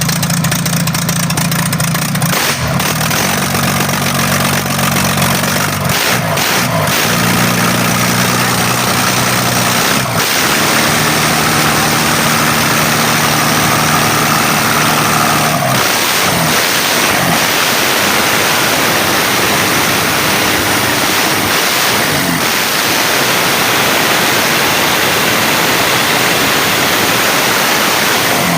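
Isuzu 6HE1 inline-six diesel truck engine running and being revved, its pitch rising and falling several times. It runs on a freshly recalibrated injection pump, with the misfiring and backfiring now gone.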